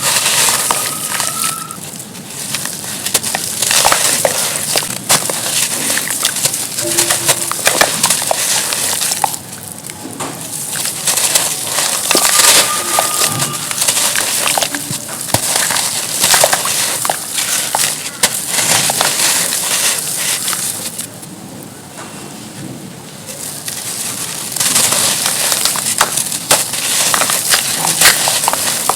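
Pure charcoal being crushed and crumbled by hand: dense, crisp crackling and crunching, with a quieter, softer stretch about three quarters of the way through.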